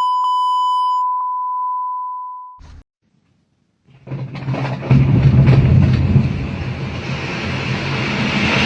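A steady 1 kHz censor beep that fades out after about two and a half seconds. After a second of silence, a loud, dense rumbling noise with a low steady hum starts about four seconds in.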